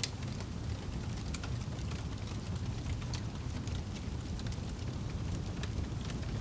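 Wood fire crackling, with scattered sharp pops over a steady low rumble of the flames.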